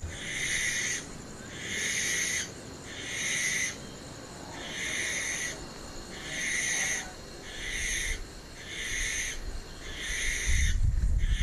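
Owl screeching: a harsh, hissing call just under a second long, repeated about nine times at an even pace a little over a second apart. A low rumble comes in beneath it near the end.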